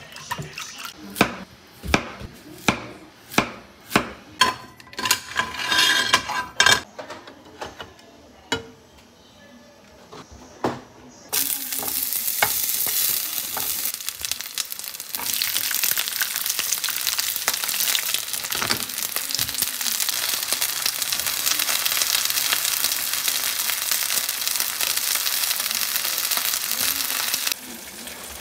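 A run of sharp knocks, about two a second, for the first several seconds. Then, about eleven seconds in, zucchini slices and bell pepper hit hot oil in a frying pan and a steady sizzle starts suddenly, cutting off just before the end.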